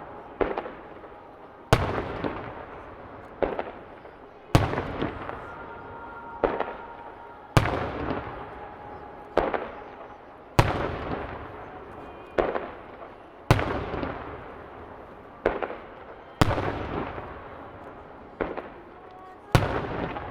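Aerial firework shells bursting overhead in a steady sequence. A loud burst comes about every three seconds, with a smaller one between each pair. Each burst is followed by a rolling echo that fades out.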